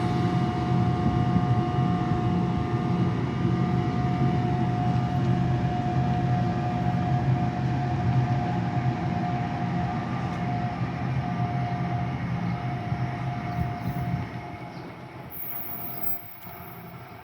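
A train running past with a steady low rumble and a high whine, fading away about 14 seconds in.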